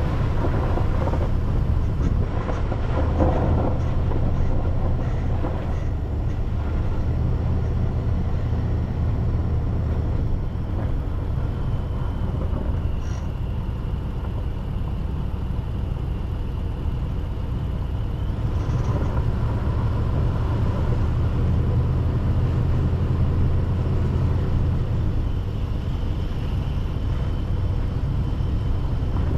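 Car driving along a road: a steady low rumble of engine and tyre noise that holds an even level throughout.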